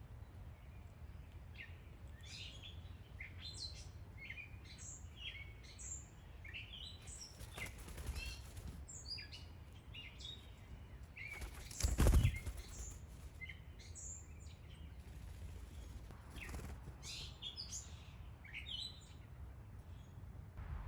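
Backyard birds chirping in short, high calls throughout, with a loud brief flutter of wings about halfway through and softer wing flaps before and after it.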